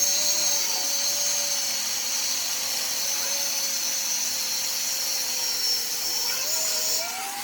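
An electric power tool's motor running steadily with a high whine. Near the end its pitch rises briefly, then it is switched off and winds down.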